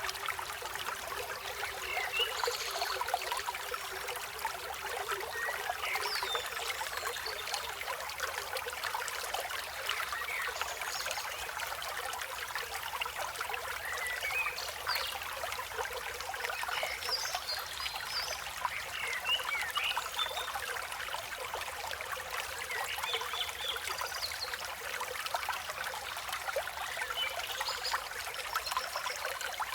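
River water flowing steadily over stones, a constant rushing and trickling, with birds chirping in short calls scattered throughout.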